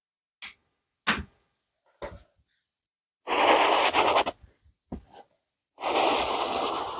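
A few light taps of a drawing tool on paper, then two stretches of rapid scribbling strokes on paper, each a little over a second long, as an area is coloured in.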